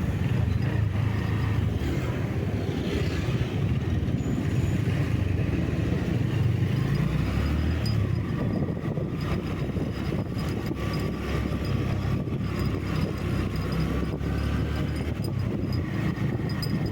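Steady low engine rumble and road noise from a vehicle driving along at an even pace.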